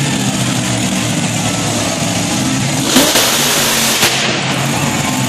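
Monster truck engine running with a steady, heavy rumble. About three seconds in comes a sudden loud burst of noise lasting about a second, with a brief sharp spike just after it.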